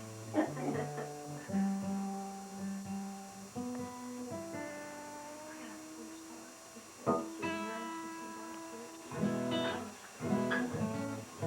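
Acoustic guitar, single notes plucked one at a time and left to ring, with a few short strummed chords near the end. The player says the strings sound dull.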